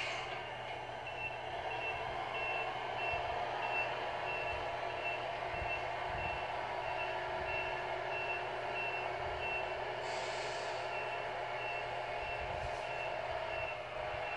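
Sound module of an RC Scania R620 model truck playing a steady engine sound with reversing beeps repeating about one and a half times a second, the truck backing up. A short air hiss, like an air brake, comes about ten seconds in.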